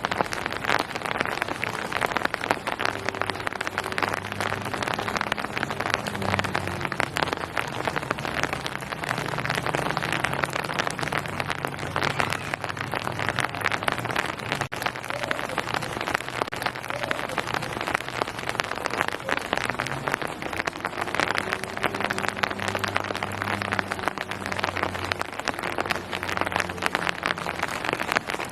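Steady rain falling on hard surfaces: a dense hiss thick with the ticks of single drops. A faint low hum swells and fades twice underneath.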